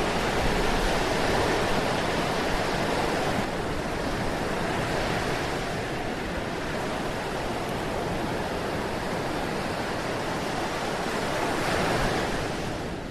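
Ocean surf: a steady rush of waves washing in, swelling and ebbing, with a last swell near the end before it falls away.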